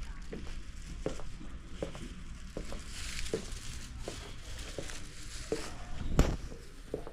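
Footsteps on a hard indoor floor, roughly one step every three quarters of a second, with a louder knock about six seconds in, over a low steady hum.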